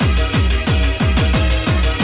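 Old skool UK happy hardcore playing: a fast, pounding four-on-the-floor kick drum at nearly three beats a second under steady synth chords.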